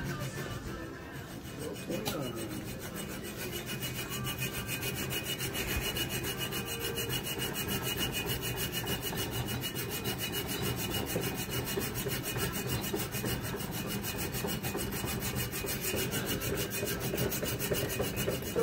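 Wood being shaped with an abrasive tool, a steady rasping and rubbing, as the knife's handle is worked to shape.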